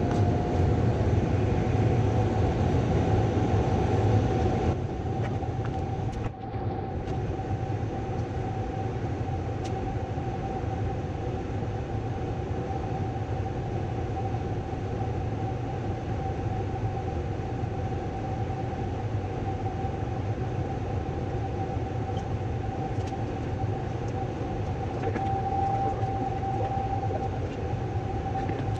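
Gas furnace running in heating mode, its blower giving a steady machine hum with a constant tone over a low rumble; the level drops slightly about five seconds in.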